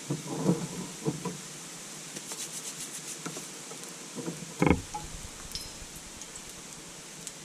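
Cooking utensil knocking and scraping in a cast-iron skillet: a few knocks in the first second and a half, a run of quick light ticks, and one louder thump a little past halfway, over a steady hiss.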